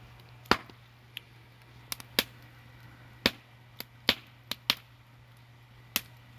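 Wood fire crackling: sharp, irregular pops of burning firewood, about ten of them, over a steady low hum.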